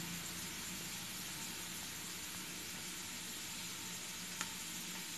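Faint, steady sizzle of chopped onions and spices frying in hot oil, with a single light tap about four seconds in.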